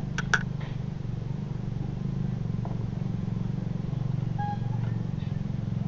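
A motor engine running steadily with a low, even hum. Two sharp clicks come just after the start, and a short high chirp comes at about four and a half seconds.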